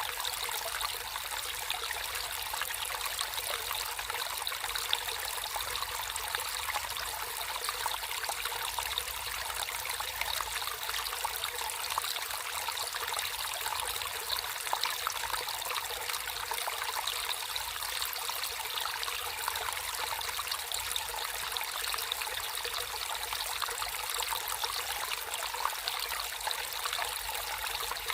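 Water flowing and trickling steadily, a continuous splashing babble of a small stream.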